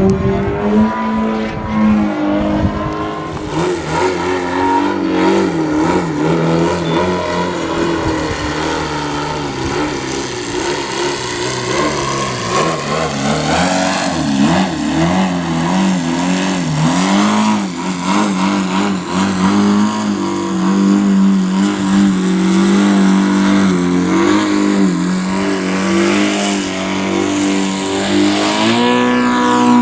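YS TZ240 four-stroke boxer twin engine running on an RC aerobatic plane, its pitch rising and falling with throttle changes and passes. Near the end the pitch sweeps up.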